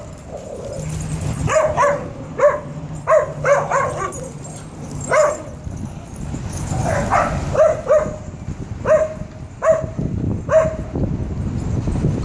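A dog barking and yipping in play: a string of short, high barks, several a second in bursts, with brief pauses between the bursts.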